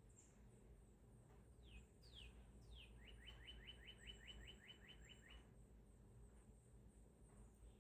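Faint small songbird calling: three short falling whistles, then a quick trill of about a dozen rising notes, roughly five a second, lasting a couple of seconds. Higher thin chirps come and go over a steady low background rumble.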